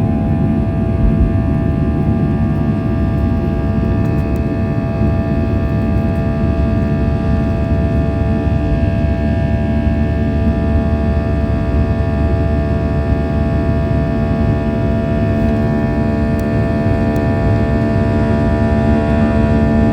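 Boeing 737's jet engines running steadily, heard inside the cabin: a loud, even rumble with several steady whining tones over it, the engine noise of the takeoff.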